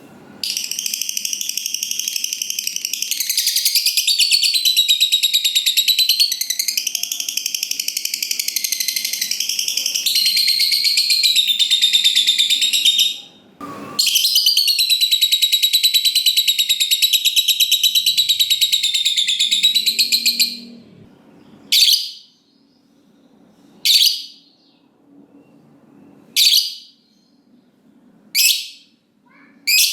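Lovebird doing a long 'ngekek' chatter: a high-pitched, rapidly pulsed trill held for about thirteen seconds, a brief break, then about six seconds more. After that come single short sharp calls about every two seconds.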